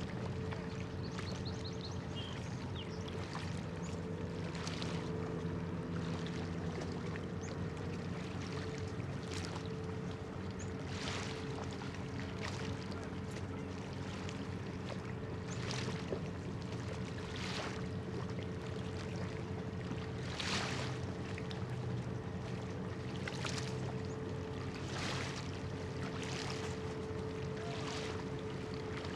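An anchored cargo ship's engines running with a steady, even drone, with small waves splashing softly every second or two.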